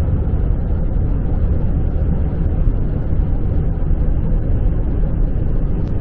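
Steady road and engine noise inside a car cruising on a freeway, with no pauses or changes.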